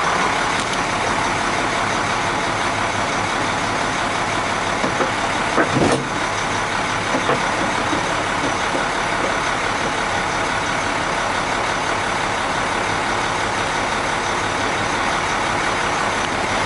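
International DT466 inline-six turbo diesel engine idling steadily in a 2001 International 4900 truck. The engine has been freshly rebuilt. There is a short clatter about six seconds in.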